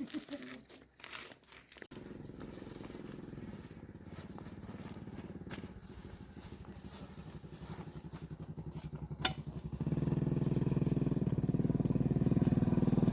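Small motorbike engine running steadily, starting abruptly about two seconds in and getting louder from about ten seconds in. There is a single sharp click shortly before the engine gets louder.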